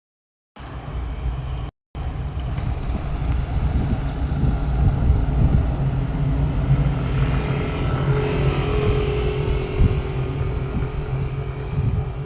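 Vehicle running: a steady low rumble, with a faint steady whine joining about eight seconds in. The sound drops out twice in the first two seconds.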